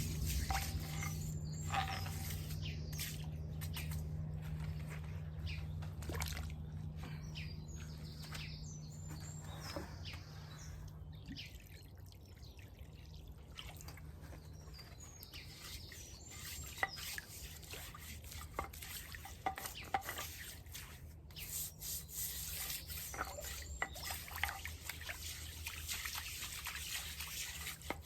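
Water dripping and trickling, with brief bird chirps early on. A steady low hum underneath fades out about twelve seconds in.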